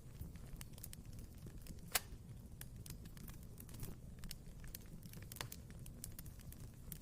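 Wood fire burning in a fireplace: a steady low rumble of the flames with irregular crackles and pops, one sharp pop about two seconds in standing out above the rest.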